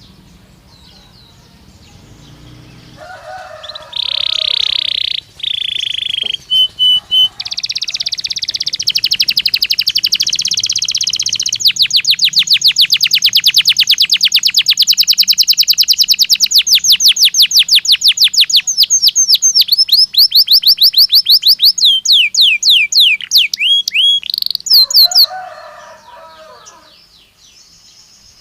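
Domestic canary (Belgian canary) singing one long song phrase. It opens with a few clear held whistles, goes into fast rolling trills lasting over ten seconds, and ends in a run of falling notes. A lower, rougher chatter comes at the start and near the end of the phrase.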